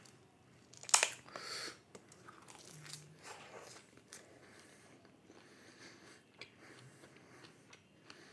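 A person taking one sharp bite of food about a second in, then chewing quietly with small scattered mouth sounds, close to the microphone.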